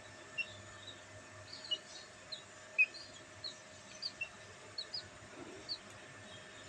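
Black bantam chicks chirping: about a dozen short, high peeps scattered irregularly, over a faint steady hum.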